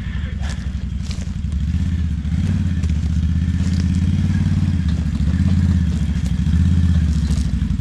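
Quad (ATV) engine running at low speed, steady with slight swells in throttle.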